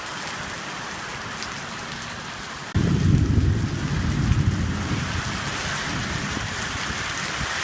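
Heavy rain falling steadily, then a sudden clap of thunder about three seconds in that rumbles low and loud for a couple of seconds and then eases off.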